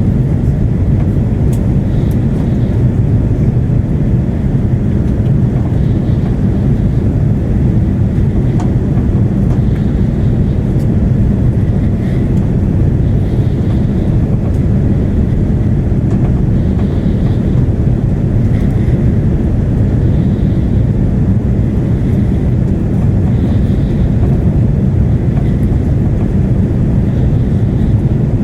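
Cabin noise inside an Airbus A330-300 airliner: a steady low rumble of engines and rushing air, unchanging throughout.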